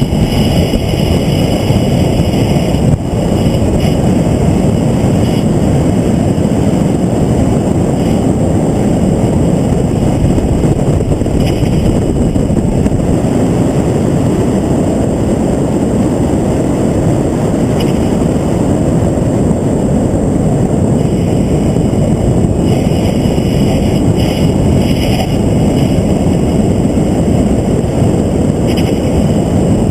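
Vehicle at speed on a race track, recorded onboard: a loud, steady roar of wind buffeting the microphone mixed with engine and road noise.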